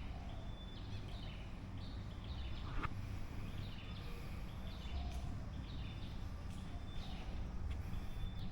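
Small birds chirping repeatedly in short high calls over a low steady background rumble of outdoor noise.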